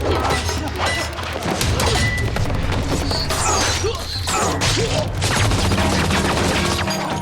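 Fight-scene sound effects: a rapid run of blows, whooshes and clattering weapon hits over a dramatic music score.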